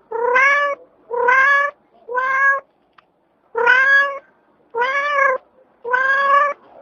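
Domestic cat meowing repeatedly: six drawn-out meows of nearly even pitch, each just over half a second long, with short pauses between them.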